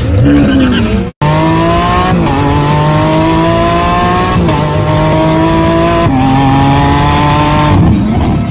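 Ferrari 812 Superfast's 6.5-litre naturally aspirated V12 accelerating hard through the gears: the engine note climbs steadily, drops at each of three quick upshifts about two seconds apart, and climbs again. A short rev at the start cuts off abruptly.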